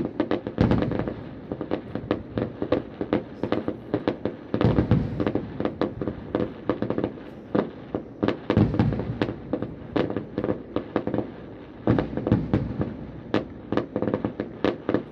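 Fireworks display going off: a rapid, continuous string of sharp bangs and crackling reports from aerial shells, with denser volleys about five seconds in, about nine seconds in and again near twelve seconds.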